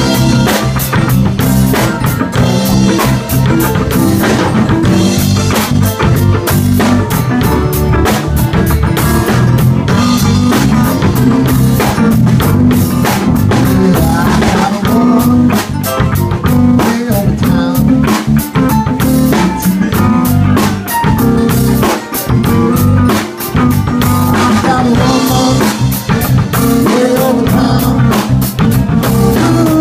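Live blues band playing an instrumental passage: electric guitar over bass and a drum kit keeping a steady beat with rimshots.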